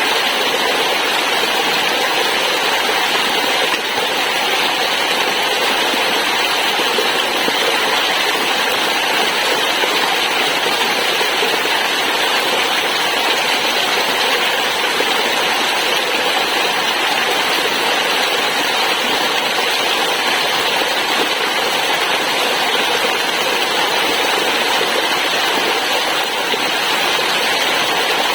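Waterfall water rushing and splashing in a steady, unbroken roar of white noise.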